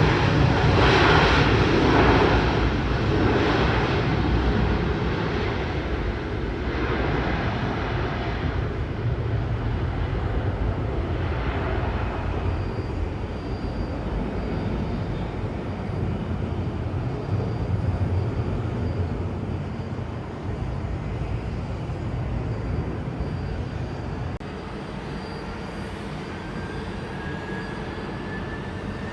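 Jet airliner's engines passing loud and close, the sound pulsing then fading away over several seconds into a steady lower rumble. Near the end a faint rising whine starts.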